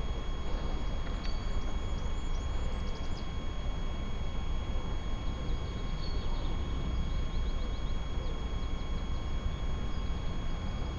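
Steady low wind rumble and riding noise on a camera carried while cycling, with a few faint high chirps about a second in and again past the middle.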